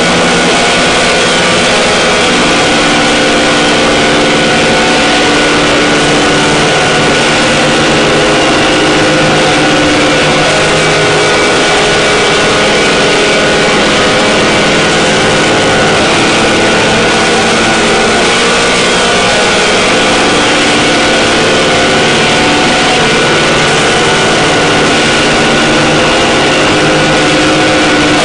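Harsh-noise drone music: a loud, dense, unbroken wall of noise with several sustained tones held through it and no beat or break.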